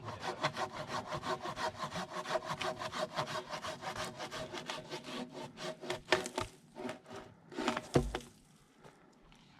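Silky Zubat curved pruning hand saw cutting through a fallen log in quick, even strokes, about five a second. Then a few slower strokes and a thud, and the sawing stops.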